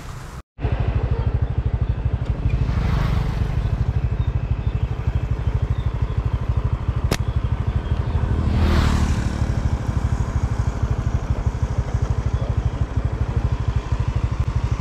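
An engine running steadily with a fast, even pulse, cutting in abruptly just after a brief gap near the start. A single sharp click about halfway through.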